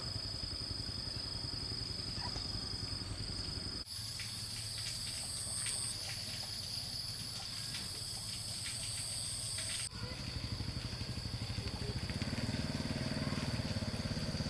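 Old diesel engine running steadily with a fast, even low thudding, broken by two abrupt cuts.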